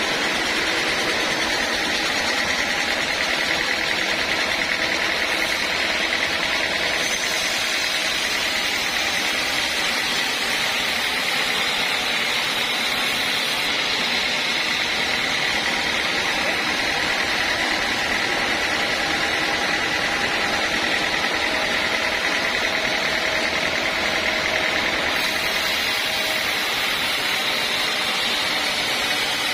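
Band sawmill running steadily as it saws teak, a constant mechanical noise with a steady high whine.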